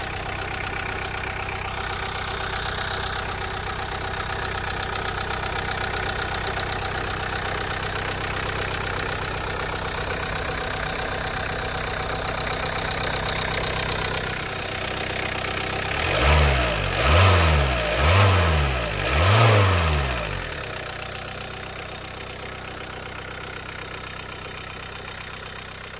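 VW Golf 2 GTD's 1.6-litre four-cylinder intercooled turbodiesel idling steadily, then blipped four times in quick succession about two-thirds of the way in before dropping back to idle.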